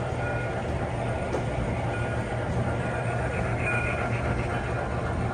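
MTH model trains running on a layout, a steady rumble of wheels and motors on the track.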